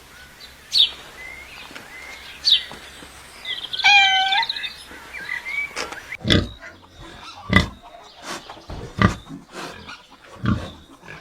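Animal calls: a short, high, cat-like meow about four seconds in, then a series of low, rough calls repeating about every second and a half.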